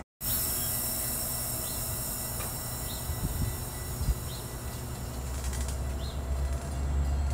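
Metra bilevel commuter train starting to roll out of the station, its cars moving slowly past at the platform. A low rumble builds over the last couple of seconds as the train picks up.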